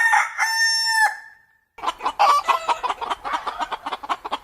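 Rooster crowing, its long drawn-out last note ending about a second in. After a brief pause, chickens cluck rapidly and steadily.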